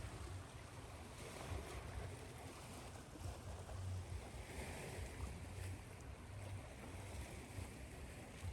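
Ocean waves washing ashore mixed with steady white noise: a continuous hiss with a low rumble underneath and surf swelling and easing, one swell about halfway through.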